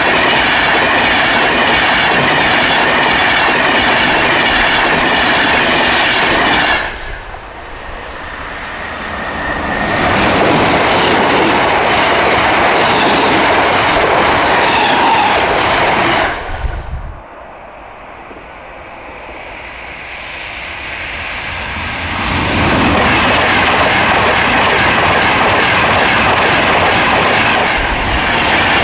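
Trains passing at speed on a main line: loud wheel-on-rail rumble and clickety-clack with a steady high whine. The sound falls away sharply twice, about 7 and 16 seconds in, and each time builds again as another train comes closer.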